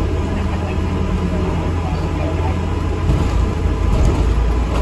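ADL Enviro 400 MMC double-decker bus running, heard from inside the passenger cabin: a steady low engine drone with road rumble, growing a little louder about three seconds in.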